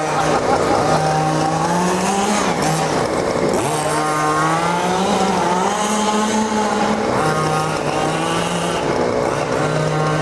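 Two-stroke petrol engine of a 1:5 scale RC car running, its pitch rising and falling again and again as the throttle is opened and let off.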